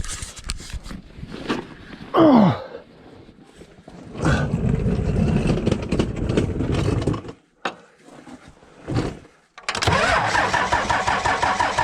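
Pickup truck's diesel engine being cranked by its starter in two tries, about three seconds from four seconds in and again near the end, without catching; the starter turns out to be hanging by loose mounting bolts.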